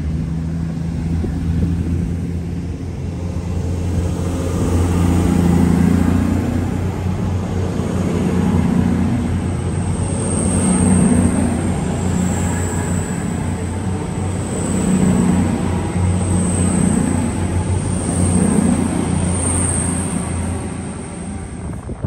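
A diesel train's engine running with a steady low drone that swells every couple of seconds. A faint high whine joins about ten seconds in.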